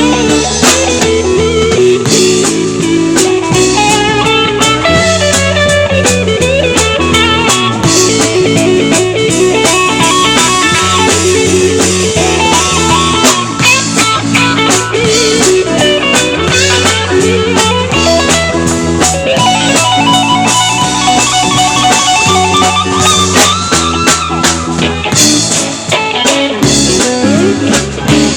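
Live band playing an instrumental passage with no singing: guitar over a steady drum kit beat and bass line.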